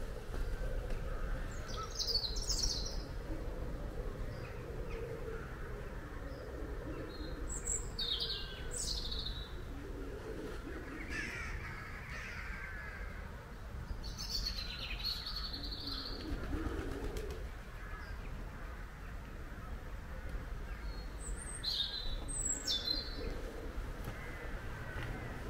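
Small birds chirping in short, high calls at intervals, several times, over a steady low rumble of outdoor background noise.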